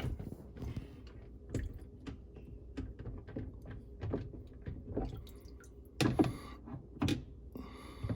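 Scattered clicks and knocks of plastic dishwasher parts and a small screw being handled in the sump, with two louder clattering handling noises near the end.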